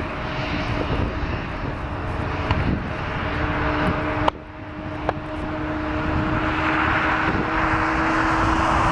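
Jet airliner engines at an airport: a steady whine with a rush of engine noise that swells through the second half. A sharp click and a brief drop in the sound come about four seconds in.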